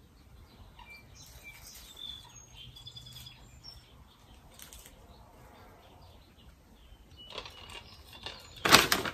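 Birds chirping outdoors, short high chirps scattered through the first few seconds over a faint background hush. Near the end comes a brief, loud rustling noise.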